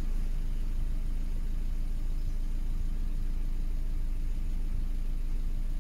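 A car's engine idling with a steady low hum, heard from inside the cabin.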